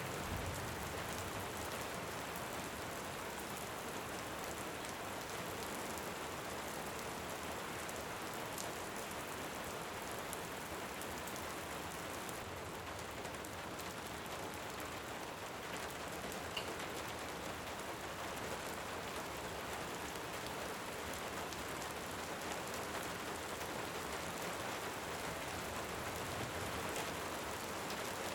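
Steady rain with an even hiss, with a few faint ticks now and then.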